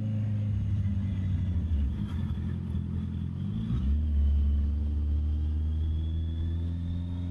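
Honda CB650R's inline-four engine running on the road. Its note dips about two seconds in, comes in louder and lower just before the middle, then climbs slowly in pitch as the bike pulls toward the end.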